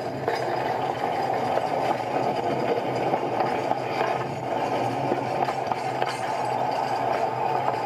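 An engine idling steadily at an even level.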